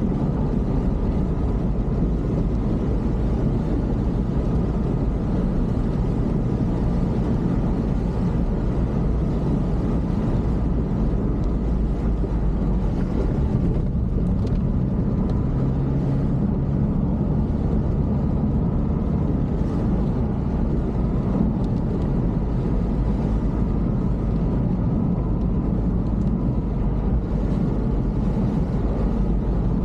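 A motor vehicle on the move, with an even, unbroken engine and road rumble.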